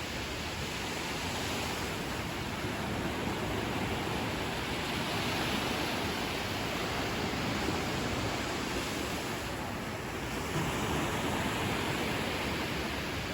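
Ocean surf washing onto a beach: a steady rush of noise that slowly swells and eases, dipping briefly about ten seconds in.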